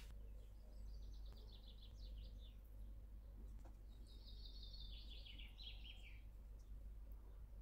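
Faint songbird singing two quick trilled phrases, the second dropping in steps toward its end, over a low steady hum.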